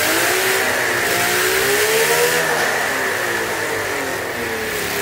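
Air-cooled 87cc V12 model engine running on methanol-nitromethane fuel, revving: its pitch rises for about two seconds, then falls away.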